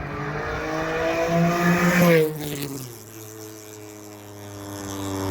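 Honda Civic's swapped 3.2-litre J-series V6 VTEC engine accelerating, its pitch climbing to a loud peak about two seconds in. The revs then drop sharply, and it settles into a lower, steadier run that builds slightly again near the end.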